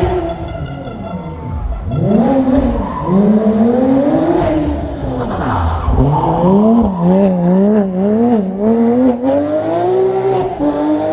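Porsche competition car's engine under hard acceleration. Its pitch climbs, falls away sharply twice, then wavers quickly up and down before settling.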